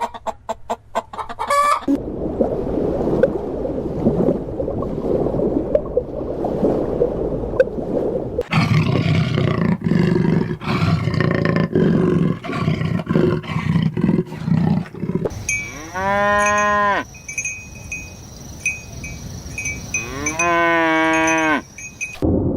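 Cattle mooing: a herd of cows lowing over a noisy background, then two clear, long single moos near the end. Brief clucking of hens at the very start.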